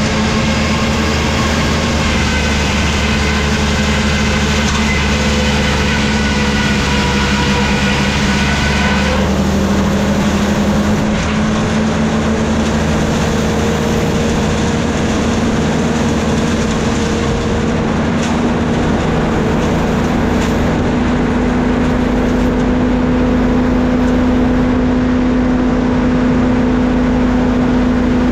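Sawmill machinery running steadily with a strong low hum. A higher whine over it stops about nine seconds in.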